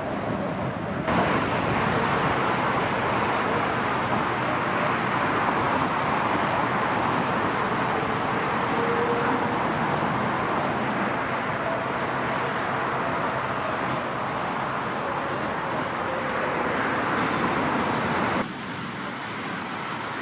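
Jet airliner on final approach passing close overhead: steady loud engine noise with a faint, slowly falling whine. It starts abruptly about a second in and cuts off abruptly near the end.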